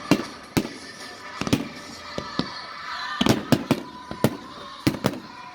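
Fireworks going off in a rapid finale barrage: about a dozen sharp bangs at irregular intervals, over a continuous crackling haze.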